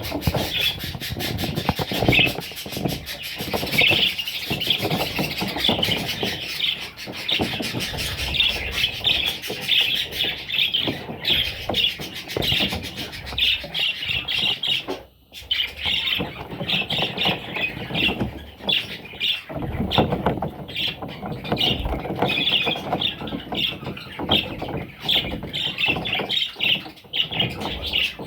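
A group of budgerigars chattering and squawking, a dense stream of short chirps that breaks off briefly about halfway through.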